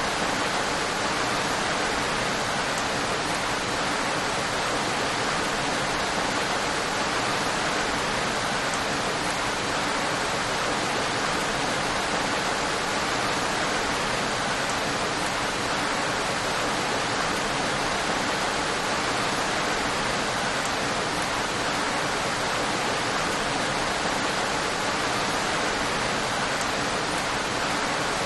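Steady, even rain falling, a constant hiss of many drops with no separate drop sounds or thunder.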